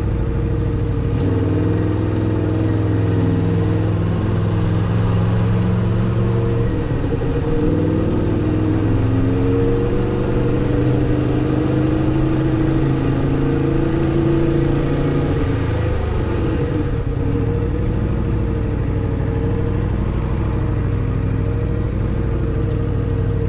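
2016 Aprilia RSV4 RR's V4 engine on its stock exhaust, running steadily at low revs with only small, gentle changes in pitch.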